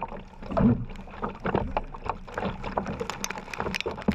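Kayak paddled hard through heavy rain: paddle strokes splash in the water, with a dense patter of sharp taps that thickens towards the end.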